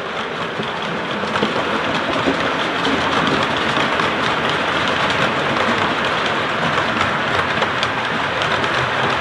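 Train coaches rolling past: a steady rush of wheels on rail, with faint clicks over the rail joints.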